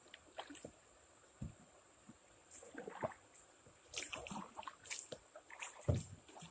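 Kayak paddling: a paddle dipping and splashing in river water in irregular small strokes, with a few light knocks and a louder dull knock near the end.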